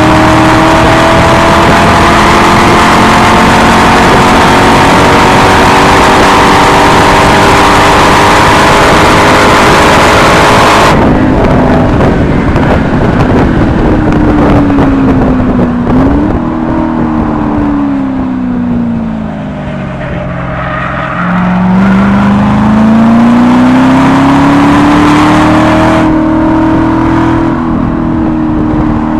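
C6 Corvette Grand Sport's 6.2-litre LS3 V8 through its NPP dual-mode exhaust, run hard on track with a steady, loud note. About a third of the way in the throttle is lifted and the pitch falls, with a short upward blip partway down. The engine then climbs in pitch again as the power comes back on, returning to full volume near the end.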